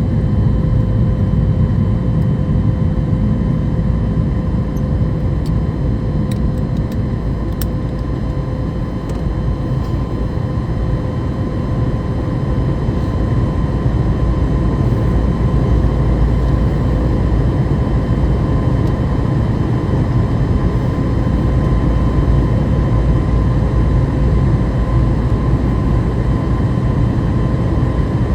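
Cabin noise of a Boeing 737 MAX 8 climbing after takeoff: the CFM LEAP-1B engines and rushing air make a steady deep roar, with a steady whine on top. The loudness dips slightly about a third of the way through, then recovers.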